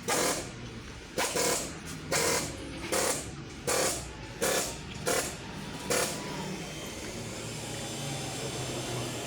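Aerosol throttle body cleaner sprayed in about eight short hissing bursts, evenly spaced a little under a second apart, stopping about six seconds in. A steady low hum continues underneath and after the bursts.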